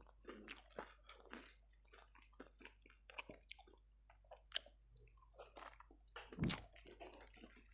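Eating ayam geprek, crispy smashed fried chicken with sambal: a run of short, soft crunches and bites as it is chewed. A louder, deeper thud comes about six and a half seconds in.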